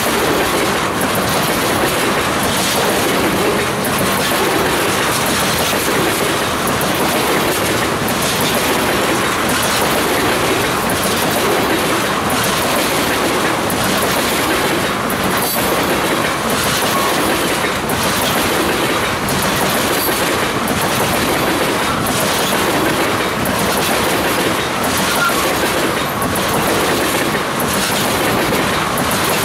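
Freight train tank cars rolling past: a steady rumble of steel wheels on rail, with a regular clickety-clack of wheel clicks repeating as the cars go by.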